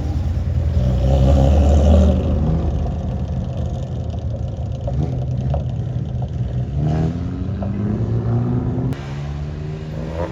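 Classic car engines driving off. The loudest one runs about one to two seconds in, and another accelerates with rising pitch around seven to nine seconds in.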